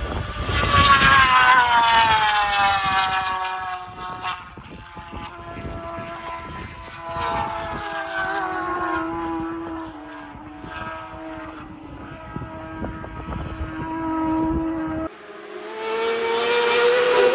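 Superbike racing motorcycles at race speed. One passes close, its engine note dropping in pitch as it goes by, then fades to a steadier, quieter note in the distance. After a sudden cut, another comes in louder near the end, its pitch rising as it closes in.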